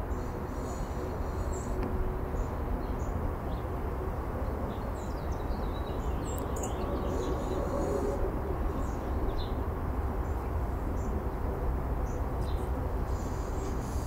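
Wild birds chirping in short, high, scattered calls, with a busier flurry of calls around the middle, over a steady low outdoor rumble.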